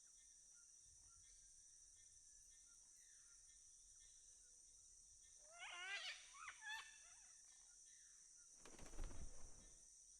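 Faint jungle ambience with a steady high insect drone. A bird gives a few short wavering calls about halfway through, and a brief rustling burst of noise follows near the end.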